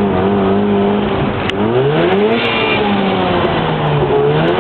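Mazda RX-7 rotary engine under way: its pitch climbs sharply as it accelerates about a second and a half in, then falls slowly as the revs ease off, and begins to rise again near the end.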